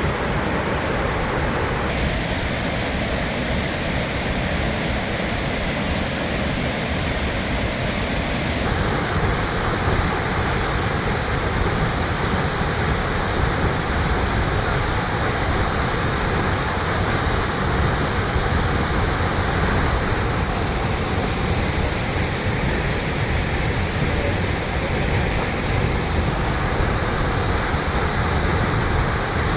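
Steady rushing of a large waterfall, High Falls on the Pigeon River. The water's sound shifts in tone about 2 and 9 seconds in.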